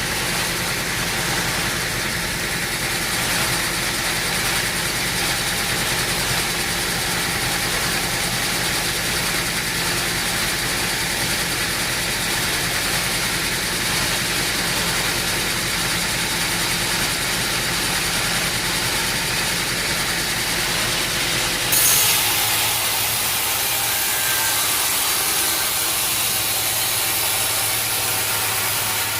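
An engine running steadily at a sawmill. About three-quarters of the way through there is a short, louder jolt, and the sound changes abruptly, with less low hum after it.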